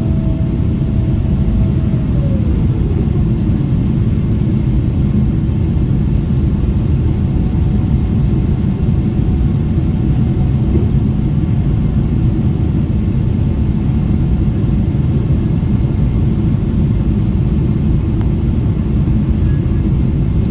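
Steady low rumble of a Boeing 777-300ER's GE90 engines and airflow heard inside the cabin in flight. An engine tone glides down in pitch about two to three seconds in.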